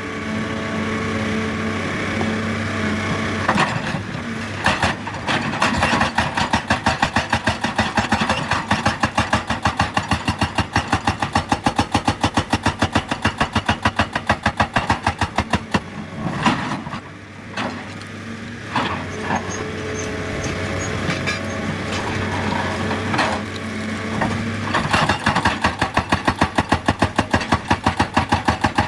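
Excavator running with a rapid, even pounding over a steady engine drone; the pounding eases for a few seconds past the middle, then comes back strongly near the end.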